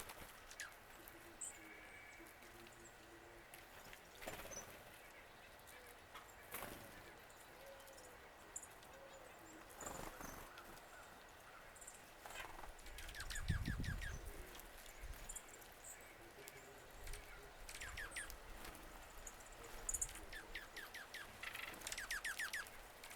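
Wild birds calling faintly: scattered high chip notes and several quick runs of short downward-sliding notes, with a brief low rumble about halfway through.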